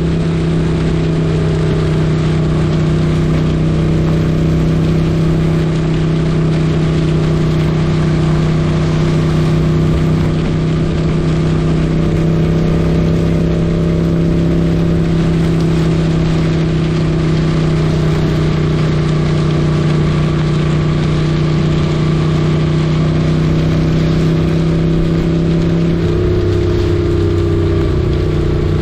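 1978 Moto Guzzi 850 Le Mans's air-cooled V-twin running at a steady cruise under way, with wind noise over it. The engine note shifts near the end as the revs change.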